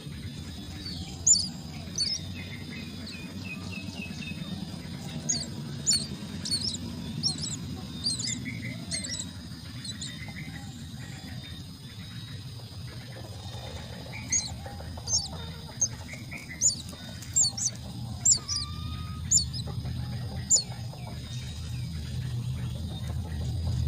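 Myna chicks cheeping: short, sharp high chirps in clusters of several at a time, with pauses between the clusters, over a steady low hum.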